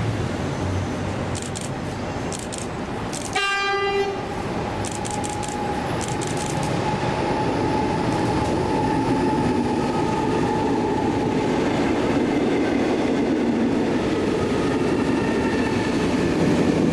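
A train sounds one short horn blast about three seconds in, then runs past with a steady rumble and a held whine that grows louder. Sharp clicks from the wheels come before and after the horn.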